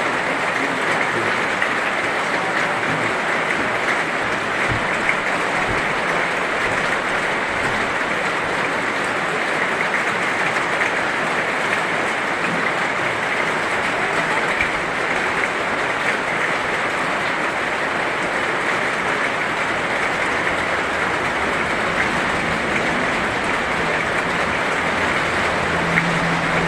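Heavy rain falling steadily: a dense, even hiss of countless drops, unchanging in level.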